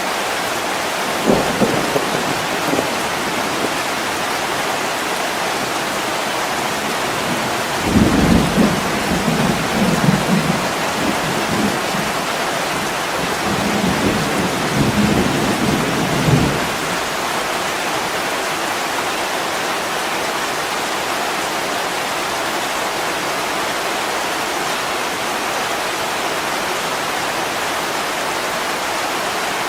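Steady heavy rain on a window, with low rolling thunder: a short rumble about a second in, then a longer rolling rumble from about eight seconds to sixteen seconds.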